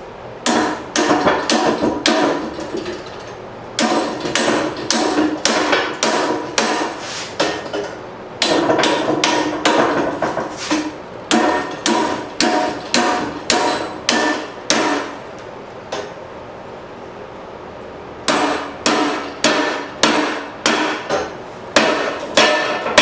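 Blacksmith's hand hammer striking hot steel on an anvil, in several runs of quick blows about two a second with short pauses between, each blow leaving a brief metallic ring.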